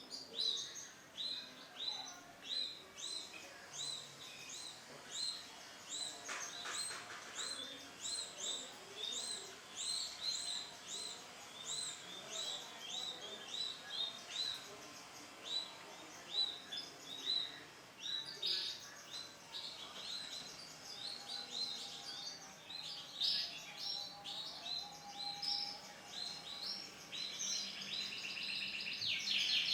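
Male canary singing: a long run of short, repeated chirping notes, breaking into a fast rolling trill near the end.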